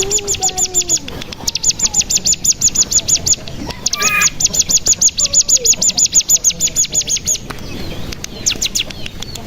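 Ciblek gunung (cigun) singing its 'bren' trill: a rapid string of sharp, high, descending notes at about ten a second. It comes in bursts of a few seconds with short breaks between them.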